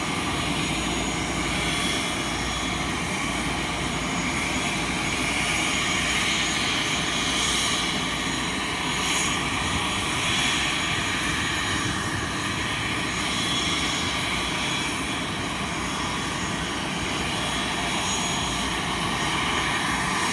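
Airbus A320's turbofan engines running, a steady rush of noise with faint steady tones above it.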